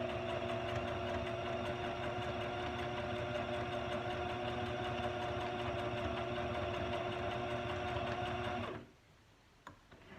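Electric sewing machine running steadily at an even speed, stitching a zigzag through paper, then stopping about nine seconds in; a few small clicks follow.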